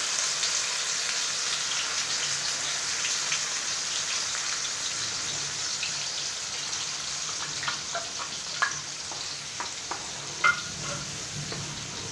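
Ground onion paste sizzling in hot oil with cumin seeds in a nonstick frying pan, a steady frying hiss that eases off a little as it goes on. From about two-thirds of the way in, a spatula scrapes and taps, with one sharper knock near the end.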